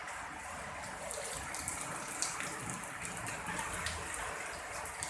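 Steady heavy rain, with water pouring and splashing and many small drop ticks.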